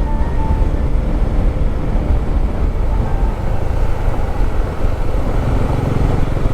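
Motorcycle on the move: a steady rush of wind on the microphone over the engine's running.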